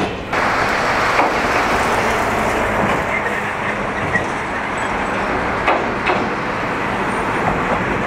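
JR 205 series 1100 electric multiple unit running toward and onto a steel girder bridge. A steady rumble with a few sharp clicks.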